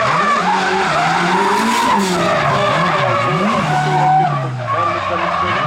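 Drift car sliding through a qualifying run, the engine's revs climbing and dropping again and again as the throttle is worked, over the continuous screech of spinning tyres. The revs sag about four seconds in and pick up sharply near the end.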